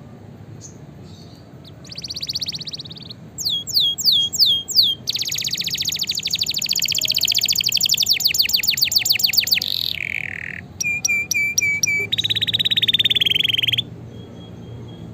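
Canary singing a run of song phrases, starting about two seconds in. It moves from fast rolling trills to a series of separate sweeping whistled notes, a long rapid trill, a short lower buzzy note and a few repeated notes, then another trill. The song stops about a second before the end.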